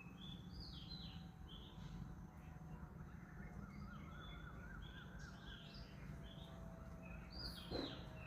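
Several small birds chirping repeatedly in short high notes, with a quick warbling trill a few seconds in, over a steady low background rumble.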